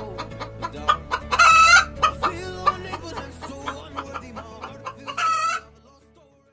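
Chickens clucking in a quick run of short calls, with two louder, drawn-out calls, one about a second and a half in and one near five seconds. The sound fades out near the end.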